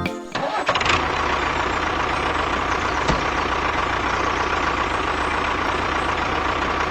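Tractor engine running steadily, starting about half a second in.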